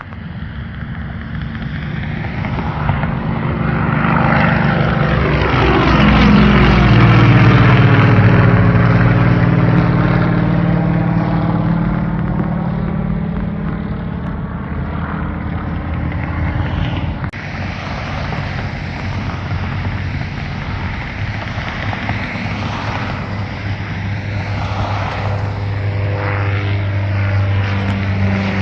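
Propeller airplane's engine passing by, growing louder to a peak about seven seconds in and then slowly fading, its pitch shifting as it goes past. An abrupt break comes about seventeen seconds in, after which a steady engine sound continues.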